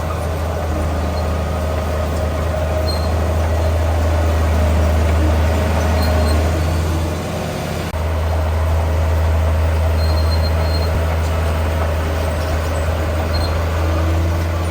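Heavy diesel engine of earthmoving machinery running steadily under load, with a brief dip in level about halfway through.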